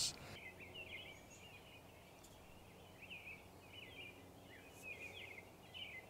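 Faint chirping of small songbirds: short, quick high notes in irregular clusters, over a quiet outdoor background hiss.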